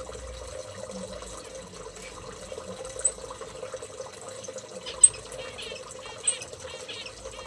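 Small aviary birds chirping again and again, with a few sharp, loud high chirps standing out, over a steady hiss like running water.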